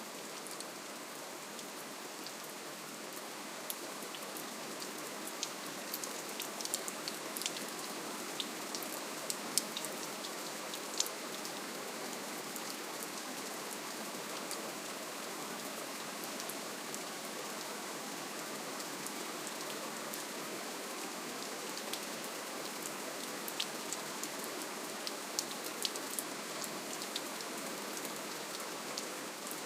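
Steady, gentle rainfall: an even hiss of rain with scattered sharper drop ticks, a few more of them in the first third and again near the end.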